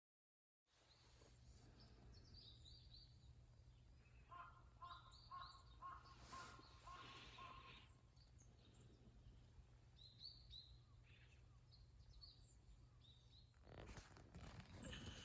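Faint outdoor ambience with birds: short high chirps in small groups, and a run of about seven repeated lower calls midway. A broader noise rises near the end.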